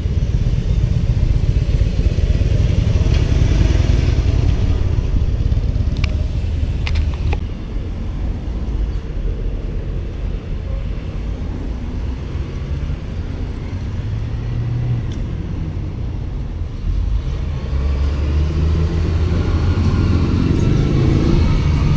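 Steady low rumble of motor vehicle engines and road noise, easing a little midway and swelling again near the end, with a few sharp clicks about six and seven seconds in.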